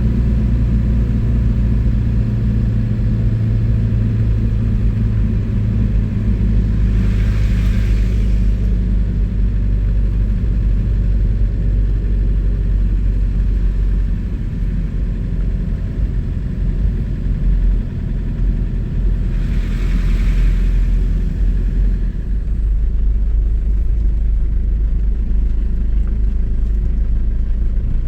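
An engine running steadily under a loud low rumble, as of a vehicle on the move, with two brief hisses about seven and twenty seconds in.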